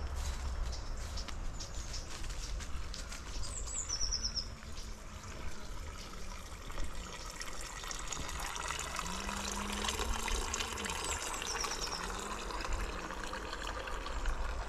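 Outdoor ambience: a small bird gives two short runs of rapid high chirps, over a steady rushing hiss and a low rumble.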